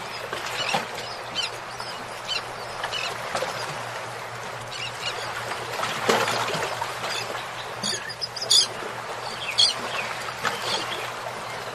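Birds calling in short, scattered chirps over a steady background hiss, with a few sharper calls about eight to ten seconds in.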